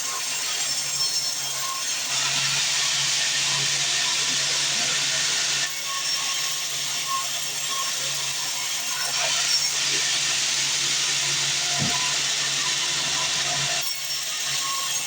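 Sawmill band saw cutting through wood: a steady high-pitched cutting noise over the machine's hum. It gets louder about two seconds in and eases off near the end.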